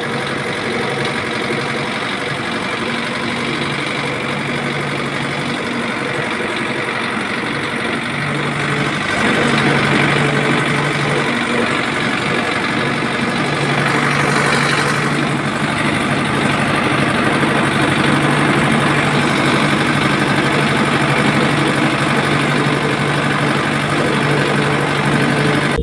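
Small engine-like motor of a miniature DIY tractor running steadily with a low hum. It gets a little louder about nine seconds in.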